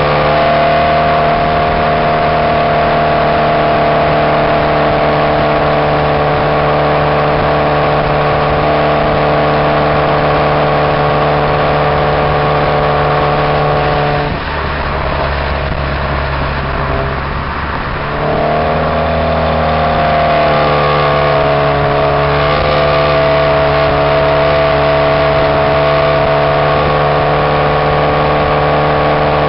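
2002 Pontiac Grand Am's Ecotec four-cylinder exhaust, run with no catalytic converter or resonator, heard right at the tailpipe while driving, holding a steady note. About halfway through, the note drops away for a few seconds, then comes back and rises in pitch.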